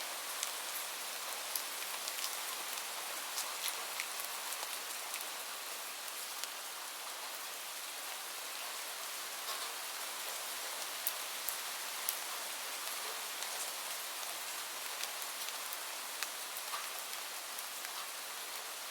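Gentle rain falling steadily as an even hiss, with scattered sharp crackles and pops from a wood fire in a fireplace.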